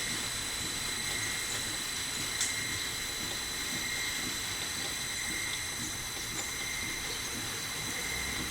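Lathe running steadily with a high whine over a hiss, and a single sharp tick about two and a half seconds in.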